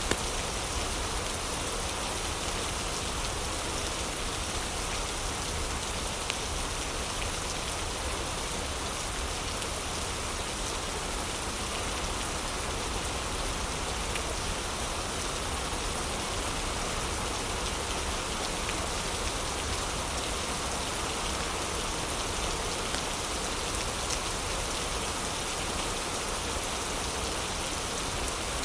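Heavy rain falling steadily, with a few faint crackles from a wood fire in a fireplace.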